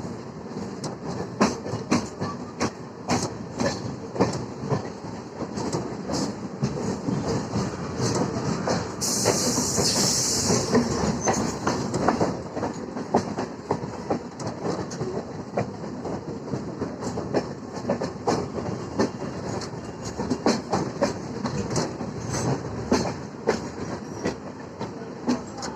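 Suburban electric local train (EMU) running, wheels clattering in quick, uneven clicks over rail joints, over a steady rumble. About nine seconds in, a loud hiss rises over the clatter for a couple of seconds.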